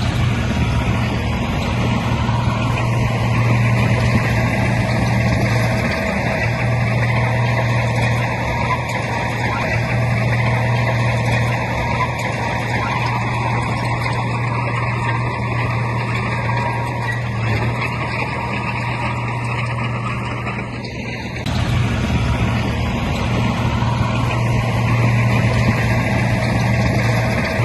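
Heavy diesel engine of earthmoving machinery running steadily under load with a deep hum and clatter. It eases off briefly about twenty seconds in, then picks up again.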